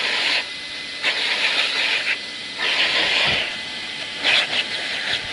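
Vacuum cleaner running with a steady high whine, its rush of air surging louder and easing off several times.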